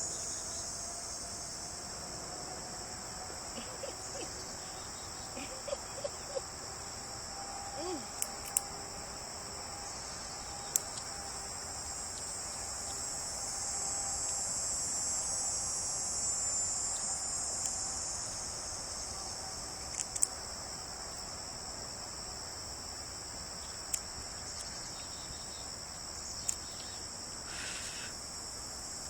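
Steady, high-pitched chorus of insects such as crickets, with scattered sharp clicks every few seconds.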